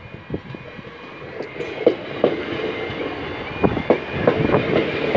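Class 321 electric multiple unit passing over the level crossing at close range, its wheels knocking over the rail joints in pairs of sharp clacks above a rumble that grows louder about two seconds in. A level crossing alarm warbles faintly underneath.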